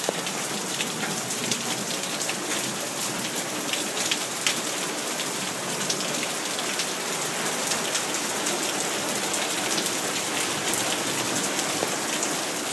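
Heavy rain pouring down: a steady, dense hiss peppered with many sharp ticks of drops striking close by.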